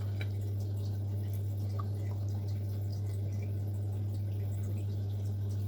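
A steady low hum, with a few faint small ticks.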